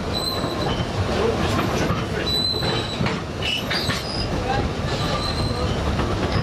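Narrow-gauge train running, heard through the open, unglazed window of a carriage: a steady rumble of wheels on the track with brief high-pitched squeals from the wheels, several times.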